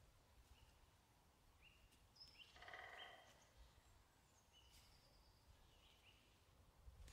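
Faint forest birdsong: several short chirps and whistles from small birds, with one louder, rougher call of under a second about two and a half seconds in. A low wind rumble runs underneath.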